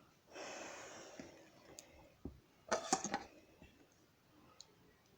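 Lego pieces being handled: a second of rustling near the start, then a quick cluster of sharp plastic clicks and taps about three seconds in, with a few faint ticks after.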